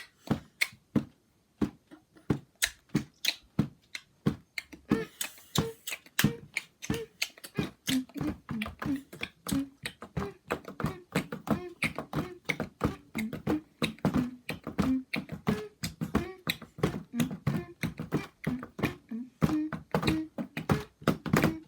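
A child beatboxing: sharp mouth clicks and pops in a steady beat, sparse at first, then busier with low hummed bass notes from about five seconds in.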